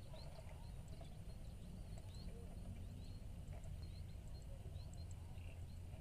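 Small birds chirping faintly in a rice field, short high calls every half second or so, over a steady low rumble.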